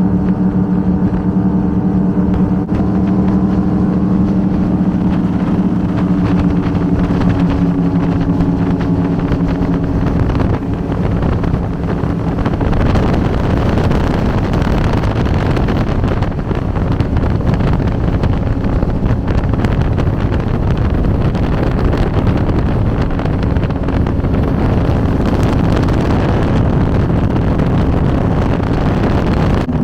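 Twin V8 engines of an Avanti 33 powerboat running steadily under way. For the first ten seconds or so the engine note is clear; after that a rushing noise of wind and water largely covers it.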